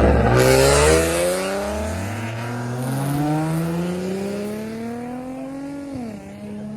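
Car engine accelerating hard, its pitch climbing steadily through one gear, then dropping sharply at a gear change about six seconds in and pulling on again.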